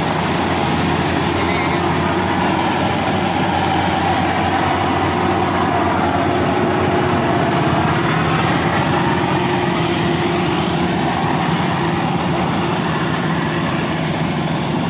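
Diesel engine of a rice combine harvester running steadily, with a continuous dense mechanical drone.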